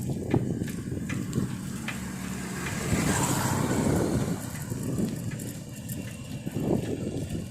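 Road traffic noise heard from a moving bicycle, mixed with wind rumbling on the microphone. A vehicle swells past about three seconds in.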